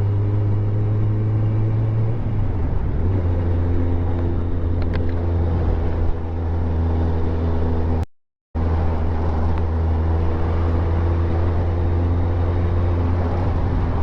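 Motorcycle engine running steadily while riding. Its note dips and wavers about two to three seconds in, and the sound cuts out completely for about half a second around eight seconds in.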